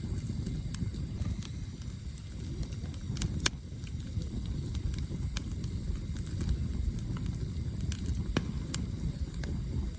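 Campfire burning, with the firewood giving sharp, scattered crackles and pops, the strongest about three and a half seconds in and again past eight seconds, over a steady low rumble.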